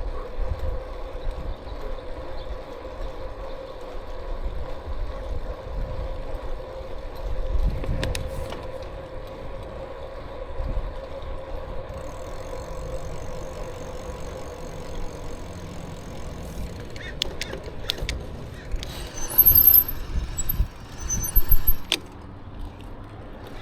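Riding sound from a bicycle on the move: wind rumbling on the microphone and tyre noise, with a steady whine that fades out about two thirds of the way through. Near the end come two loud bursts, each with a very high squeal.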